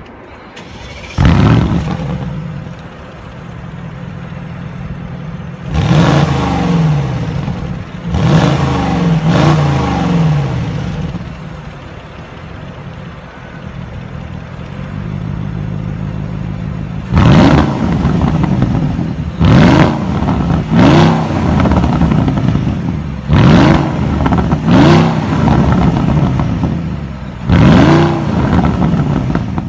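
2016 Porsche Cayenne Turbo's 4.8-litre twin-turbo V8 idling and being revved in short blips, about nine in all, the pitch rising sharply and falling back each time. Two longer revs come around six and eight seconds in, and a quicker series of blips fills the second half.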